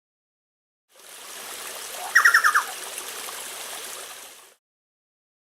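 Steady rush of river water with a bird calling over it: a quick run of about six sharp notes a couple of seconds in, the loudest sound here. The water sound starts about a second in and cuts off abruptly.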